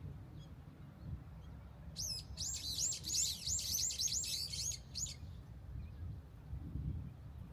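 A small songbird singing a fast run of about nine repeated high, looping notes for about three seconds, starting about two seconds in, over a steady low rumble.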